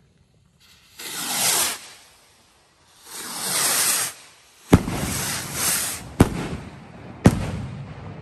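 Fireworks going off: two loud whooshing rushes about two seconds apart, then three sharp bangs a second or so apart, each trailing off into a short rumble.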